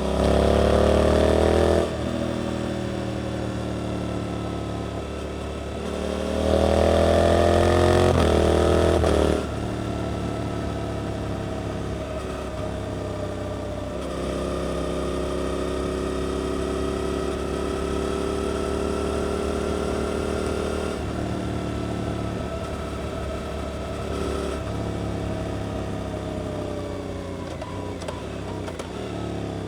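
Suzuki GSX-8S parallel-twin through an Arrows exhaust, ridden on the move. Two hard bursts of throttle in the first nine seconds send the pitch climbing. Then comes a long steady cruise with the pitch creeping up, and the engine eases off with the pitch falling near the end.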